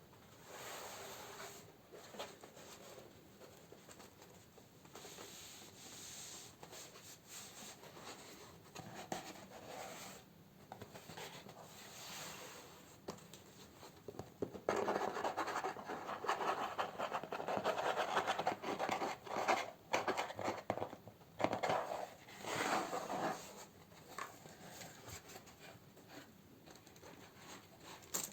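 Candles in plastic and paper packaging being handled and sorted: soft rubbing and rustling at first, then louder, continuous crinkling from about halfway through that dies down near the end.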